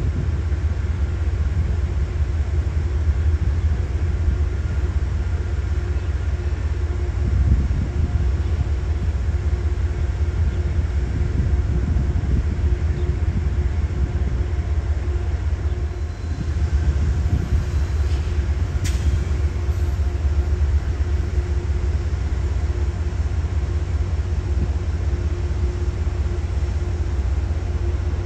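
Passenger train running steadily: a constant low rumble with a steady hum.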